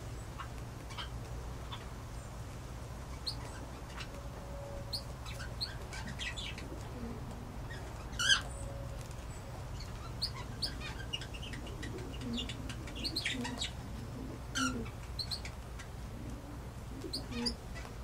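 Small birds chirping on and off, short high calls scattered throughout, one louder call about eight seconds in, over a steady low hum.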